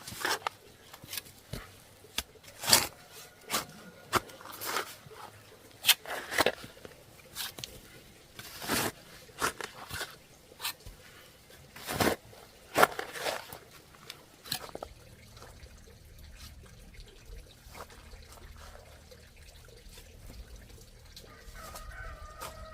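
Irregular sharp knocks or strikes, some loud, for about the first fourteen seconds, then a steady low hum with a short pitched call near the end.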